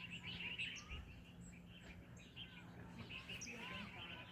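Small birds chirping and twittering: many short, high calls overlapping, with a few arched whistled notes near the end. A faint steady low hum runs underneath.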